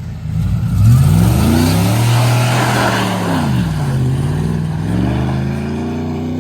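A vehicle engine under hard throttle: it revs up about a second in, holds high, drops back around four seconds in, then climbs again. A rushing hiss rises over it in the middle.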